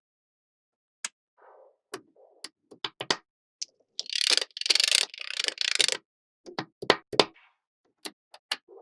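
Small magnetic balls clicking and snapping together one at a time, with a couple of seconds of dense rattling clatter in the middle as a cluster of balls shifts and rolls together.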